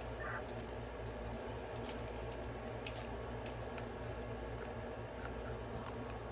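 Faint squishy handling noises and scattered small clicks over a steady low hum.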